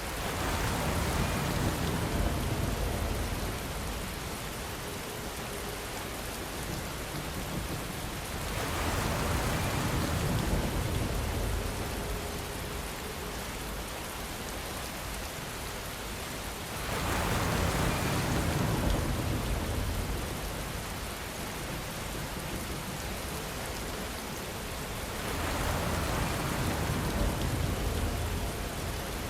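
Steady rain falling, swelling louder and fuller about every eight seconds, four times.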